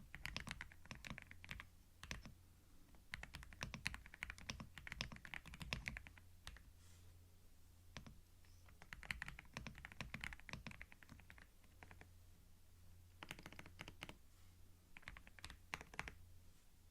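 Typing on a computer keyboard, recorded binaurally: quick runs of key clicks lasting a second or two, broken by short pauses, over a faint low hum.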